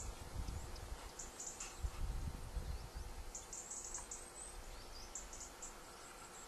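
A small bird chirping in short, very high-pitched bursts of four or five quick notes, about every two seconds, over a low rumble that fades over the first few seconds.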